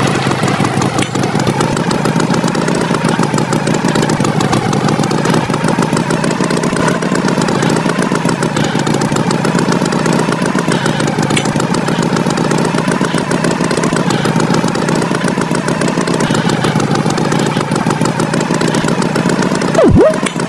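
Engine running steadily with an even, buzzing drone, likely the cartoon's tractor engine sound. Just before the end, a brief, louder swooping tone dips sharply in pitch and rises again.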